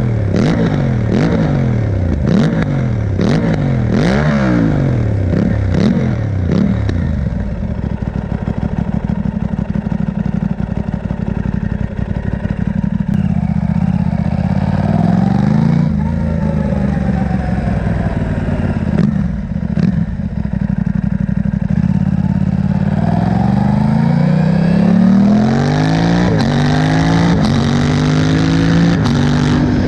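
Aprilia RS660's parallel-twin engine through a Mivv Delta Race exhaust with the catalytic converter removed and the dB killer fitted. For the first few seconds its note rises and falls about once a second as it revs up and down. It then runs steadier and climbs in pitch several times over near the end.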